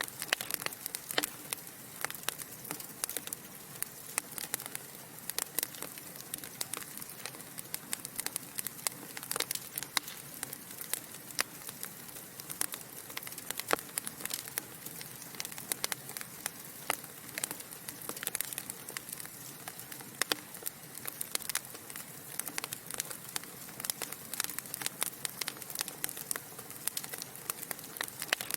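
Wood fire burning in a fireplace, crackling with many irregular sharp snaps and pops over a soft steady hiss.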